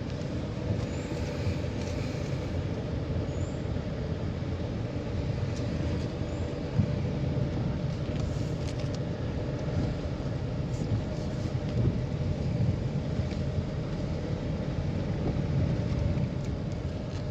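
A car driving along a road: a steady low engine and road rumble, with a few small knocks and rattles.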